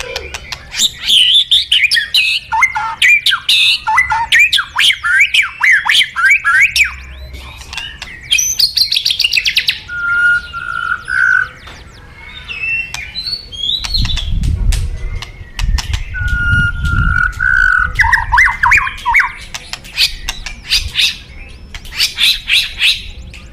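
A white-rumped shama singing a rapid, varied song: quick sweeping phrases broken up by harsh rattling and clicking notes, with a few held whistles. A low rumble runs underneath for a few seconds midway.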